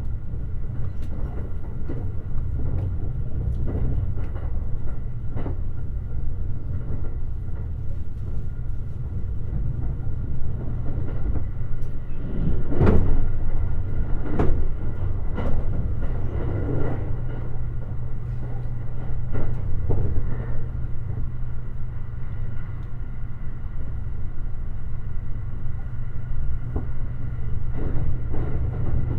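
Limited express electric train running along the line, heard from on board: a steady low rumble of wheels on rail with scattered clacks over rail joints, several louder ones close together about halfway through.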